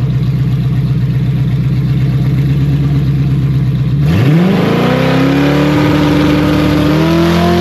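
Twin-turbo 5.0 Coyote V8 in a drag-race Ford Mustang running at a steady low, pulsing idle, then about four seconds in the revs climb quickly and hold at a high, steady pitch, stepping up once more near the end.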